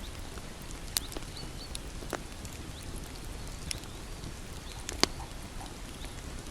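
Wood bonfire burning: a steady low rumble of flames with scattered crackles and sharp pops, the two loudest about a second in and about five seconds in.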